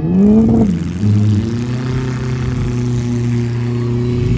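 Derby vehicle's engine revving hard: a quick rise and fall in pitch in the first second, then held at high revs.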